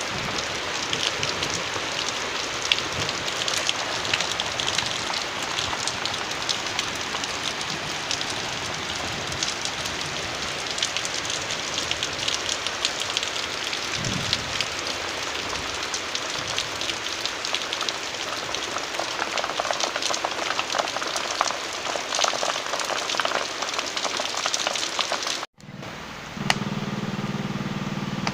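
Steady rain falling, a dense patter of drops. Near the end it cuts off abruptly and a steady low hum takes over.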